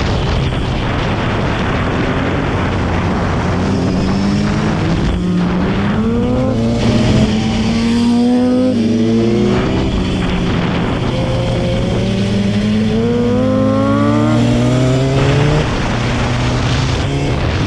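Motorcycle engines accelerating hard, the pitch climbing through each gear and dropping back at every shift, over and over.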